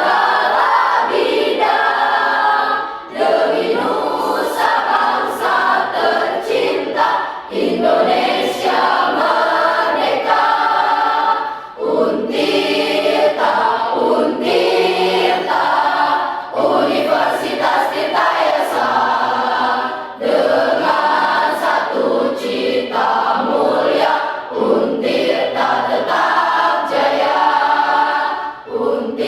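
Class choir singing together, several voices in sustained sung phrases with short breaks between phrases.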